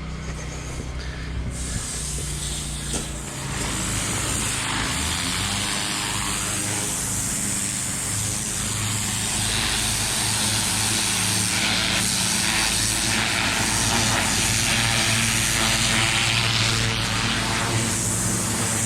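Pressure washer running: a steady machine hum under the loud hiss of the high-pressure water jet. The hiss comes in a second or two in and grows louder a couple of seconds later.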